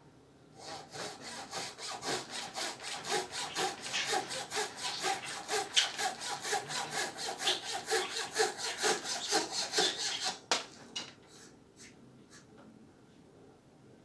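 Fret saw being worked by hand through a thin wooden dowel rod, in quick even strokes about five a second. The sawing stops about ten seconds in.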